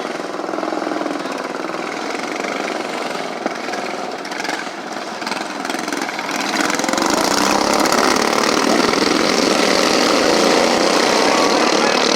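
An engine running steadily, growing louder about halfway through as its pitch rises.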